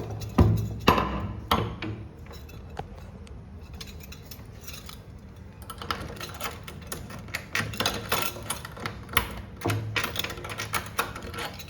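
Clinks and clatter of small hard objects being handled: a few knocks near the start, then a dense run of rapid clicks and clinks in the second half.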